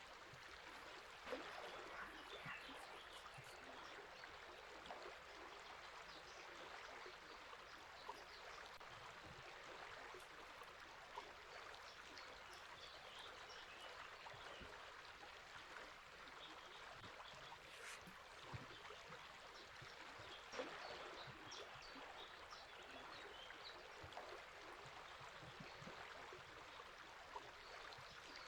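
River water flowing steadily in a faint, even rush, with small birds chirping briefly now and then.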